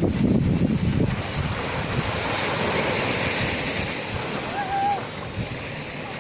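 Sea waves breaking and washing in, with a heavier surge of surf in the first second that settles into a steady rushing wash.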